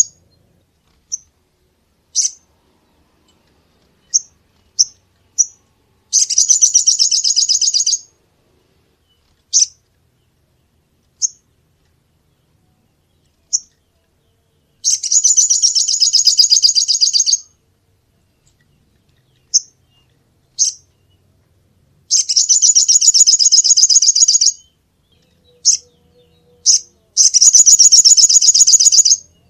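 A small songbird singing: four fast, high, buzzing trills, each two to three seconds long, with single sharp chip notes between them.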